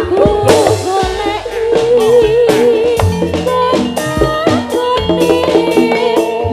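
Live jathilan music played loud through a sound system: sharp drum strokes over sustained notes, with a wavering, vibrato-laden melody line.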